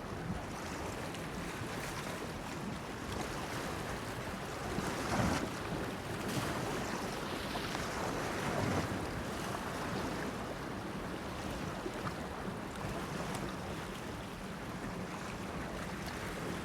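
Sea waves washing against a breakwater, a steady rush that swells several times, with wind on the microphone and a faint low steady hum underneath.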